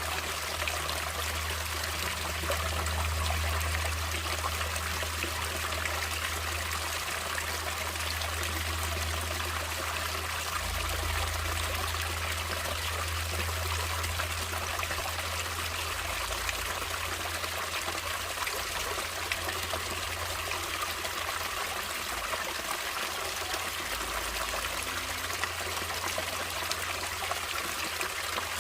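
Stream water flowing and trickling steadily, with a low rumble underneath that swells and eases.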